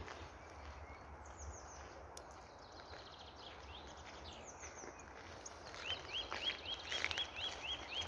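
Birds calling: a few high, quickly falling notes about halfway through, then a fast run of repeated short chirps, about four a second, in the last couple of seconds, over a steady outdoor hiss.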